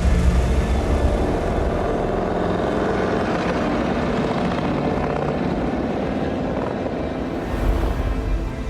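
Harley-Davidson motorcycle engine running as the bike is ridden, a steady low rumble.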